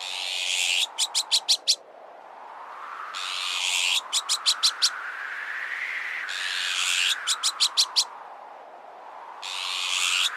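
Azure-winged magpie alarm calls repeated about four times, each a harsh rasping screech followed by a quick run of four or five sharp notes. Under them is a howling wind that slowly rises and falls in pitch. It is a bird-deterrent sound mix.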